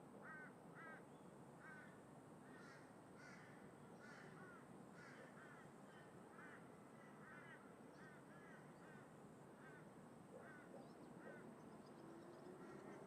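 Crows cawing repeatedly, about one or two calls a second, faint over a steady background of distant traffic and wind.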